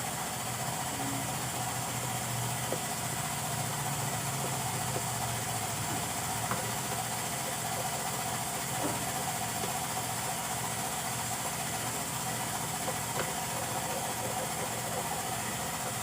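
An engine idling steadily in the background, with a few faint clicks scattered through it.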